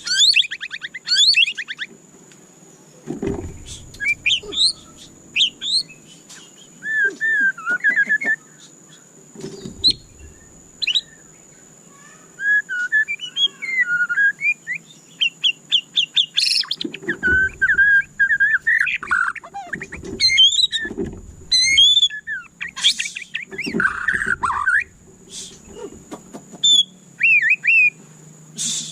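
White-rumped shama singing: varied phrases of quick, sliding whistles and chirps, broken by short pauses.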